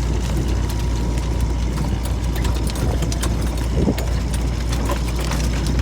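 Boat under way: a steady low rumble with many irregular clicks and knocks over it.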